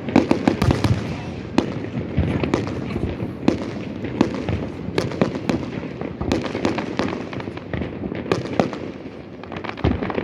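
Fireworks display: a rapid, unbroken run of bangs and crackling pops over a steady rumble, thinning a little near the end.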